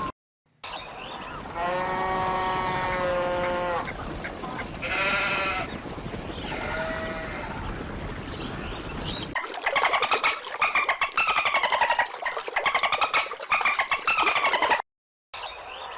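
Animal calls. A long, drawn-out call at about two seconds and a shorter one around five seconds, then from about nine seconds a rapid run of repeated calls rising and falling in pitch.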